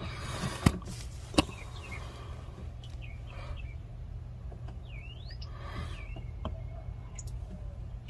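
Birds chirping in the background over a steady low rumble, with two sharp clicks less than a second apart near the start.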